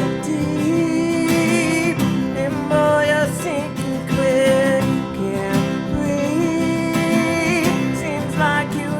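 Country band music with strummed acoustic guitar and a wavering melody line over it.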